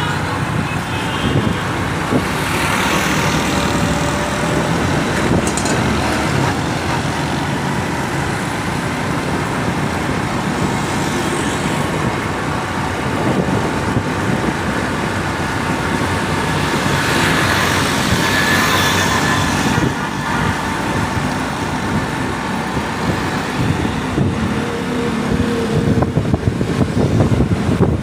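Road traffic: a steady din of vehicle engines and tyres, swelling twice as vehicles pass close by, once a few seconds in and again a little past halfway.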